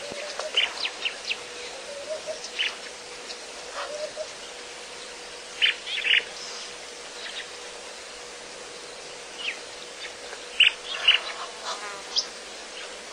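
Birds calling in short, sharp chirps, scattered and some in quick pairs, over a steady faint hum and insect buzz.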